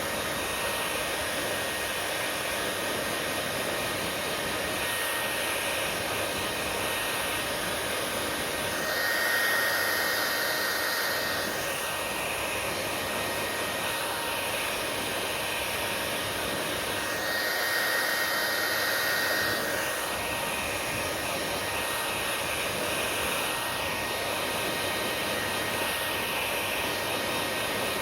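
Hair dryer blowing steadily with a thin high whine, swelling louder twice, about nine and eighteen seconds in.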